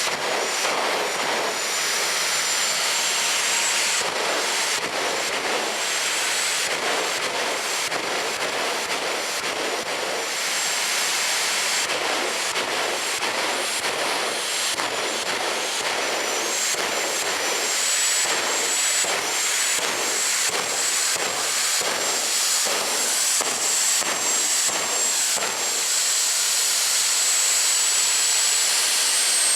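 Jet engine of a jet-powered drag vehicle running steadily: a loud rushing roar with a thin, high turbine whine that edges upward in pitch near the end. Through the middle it pulses rapidly and unevenly.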